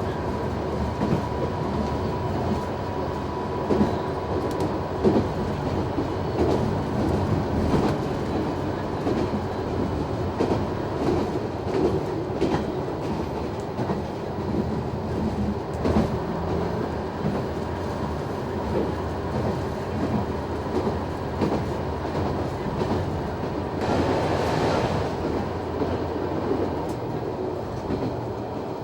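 Noto Railway NT100 diesel railcar running along the line, heard from inside: a steady rumble with sharp, irregular clicks of the wheels over rail joints, and a brief rush of noise near the end.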